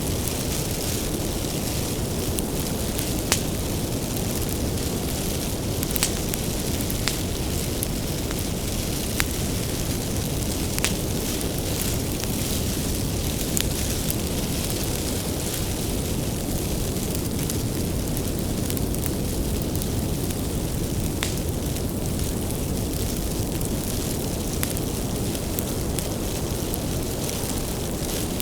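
Wood fire burning with a steady low rush, and sharp crackles and pops from the firewood every second or two.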